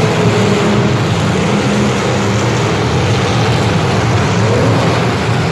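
An engine running steadily, with a loud rushing noise over it.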